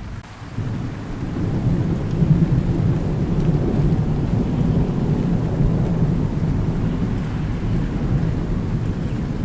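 A long, deep rumble of rolling thunder that swells up about half a second in and keeps rolling, over steady rainfall.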